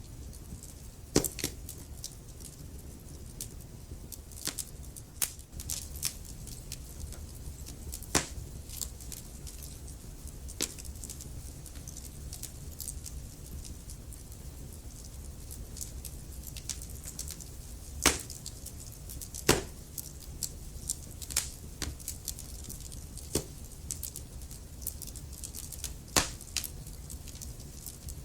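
Wood fire in a fireplace crackling: irregular sharp pops and snaps, a few of them much louder, over a low steady rumble.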